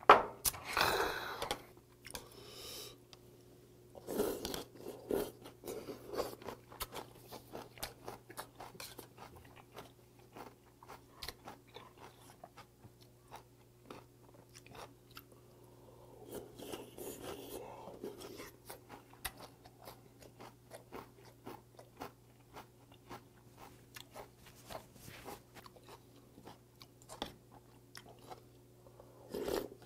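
Close chewing and crunching of raw damselfish mulhoe: bony slices of jaridom and crisp raw vegetables in a cold doenjang broth. It is a steady run of small sharp crunches with louder stretches now and then, after a short loud burst right at the start.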